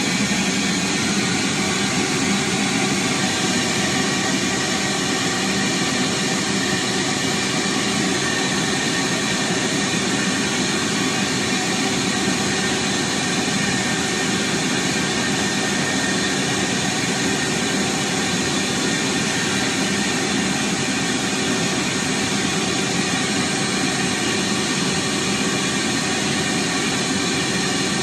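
Vacuum cleaner motor running steadily, a constant whooshing noise with a steady whine and no change in pitch or level.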